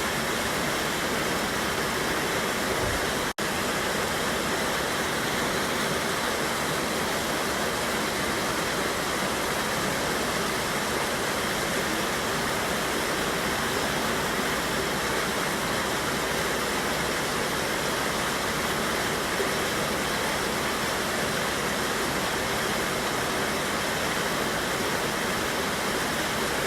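River water rushing over a waterfall, a dense, steady rush without let-up. It cuts out for an instant about three seconds in.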